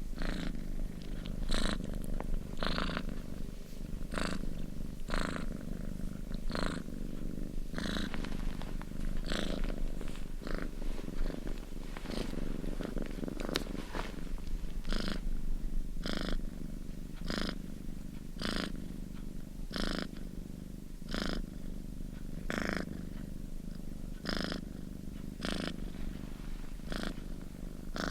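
Domestic cat purring steadily in close-up, a continuous low rumble with a breathy surge about once a second as it breathes in and out.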